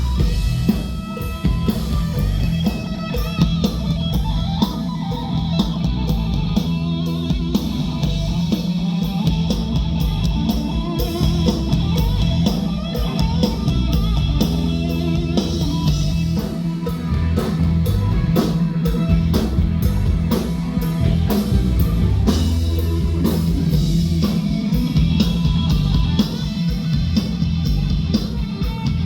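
Live rock band playing loudly, with electric guitar and drums.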